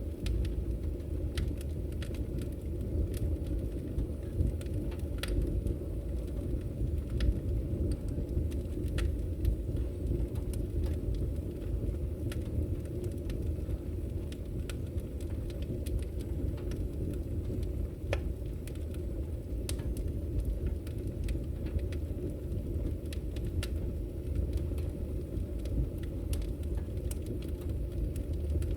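Burning firewood: a steady low rumble of the fire with many sharp crackles.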